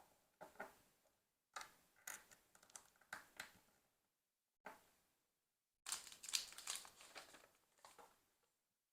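LEGO pieces and their packaging being handled: quiet bursts of crinkling and light plastic clicks in four or five clusters, with dead silence between them.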